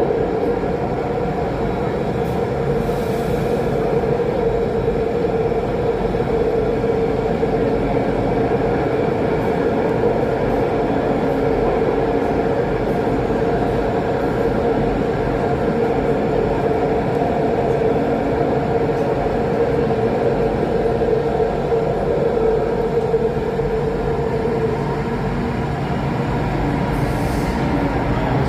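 Alstom Metropolis C830 metro train running between stations, heard from inside the carriage: a steady rumble of wheels and running gear with a constant hum.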